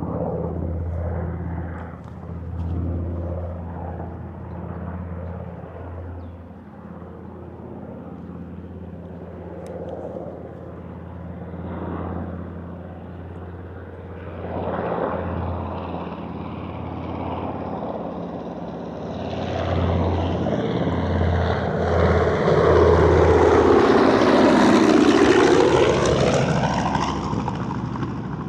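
WWII B-25 Mitchell bomber's twin Wright R-2600 radial engines droning as it flies past, growing louder from about two-thirds of the way in and loudest near the end, with the pitch sweeping as it passes. A steady low hum runs under the first part.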